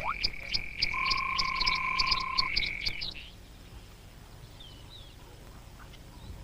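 A chorus of frogs calling, with steady high-pitched trills and rapid clicking, that cuts off about three seconds in. After that only a few faint chirps are heard.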